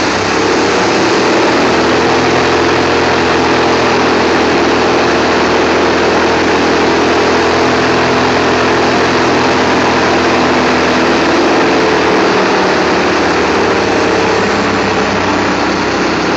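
Portable sawmill's engine running hard and steady. Its pitch climbs about half a second in, holds, and sags near the end, as if coming under load and then easing off.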